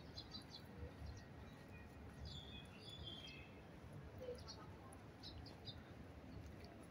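Faint short, high chirps of small birds, coming a few at a time, over a low steady background rumble.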